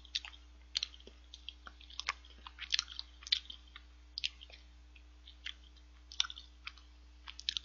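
A person chewing a soft choux cream bun with the mouth close to the microphone: irregular wet smacks and small clicks, several a second at times.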